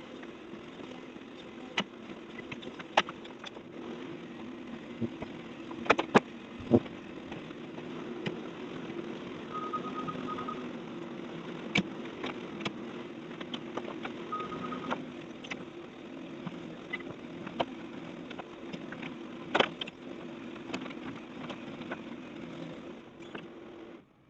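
Heavy machinery engine running steadily, with scattered sharp knocks and clanks of demolition debris and two short runs of rapid beeping.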